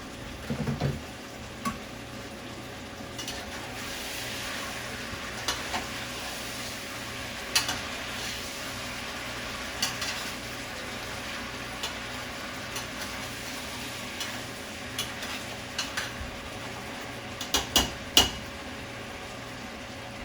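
Food sizzling in a cooking pot on the stove, stirred with a utensil that knocks and scrapes against the pot now and then, with a quick cluster of knocks near the end.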